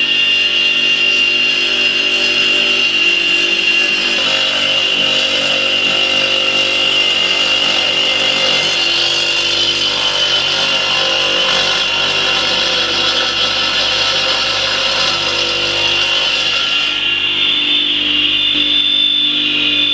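Electric brick-cutting saw with a diamond blade running steadily while cutting a brick at an angle, with a high whine over the noise of the cut; the sound changes about seventeen seconds in.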